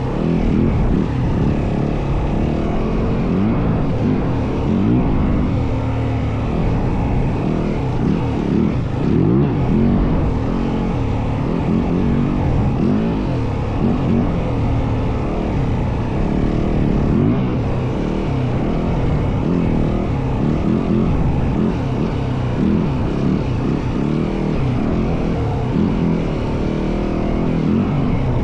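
Yamaha WR450F dirt bike's single-cylinder four-stroke engine running under way off-road, its revs repeatedly rising and falling as the throttle is worked.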